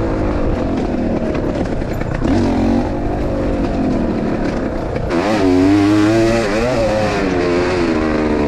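Enduro motorcycle engine running and revving, its pitch rising and falling and growing louder about five seconds in. The rider reports that second gear won't engage, leaving only first and neutral.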